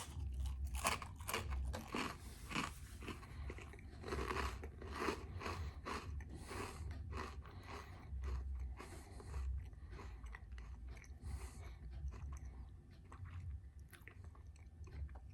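Melba toast being bitten and chewed: a long run of dry, irregular crunches that thin out toward the end.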